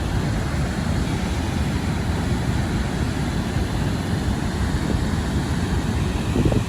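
Steady roar of Niagara Falls: rushing, falling water as an even, pitchless noise, heaviest in the low rumble.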